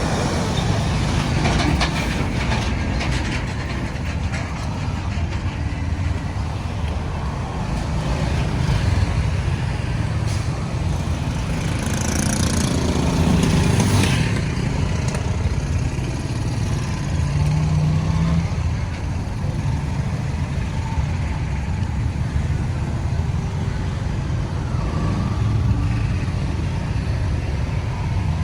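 Road traffic noise: a steady rumble of engines and tyres from passing vehicles, with a louder hissing rush from one passing vehicle about twelve to fourteen seconds in.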